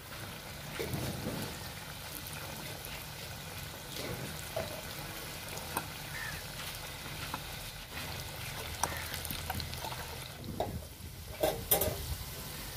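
Besan pakora batter frying in hot mustard oil in a pan: a steady soft sizzle, with a few light clicks near the end.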